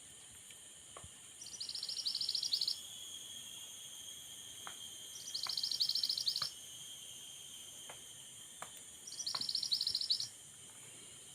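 A bird calling three times, each call a loud, fast high-pitched trill lasting about a second, repeated about every four seconds over a steady high hiss of background insects.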